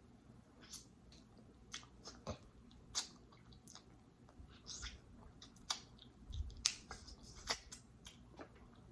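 Close-miked eating: chewing with scattered sharp clicks and short crackles.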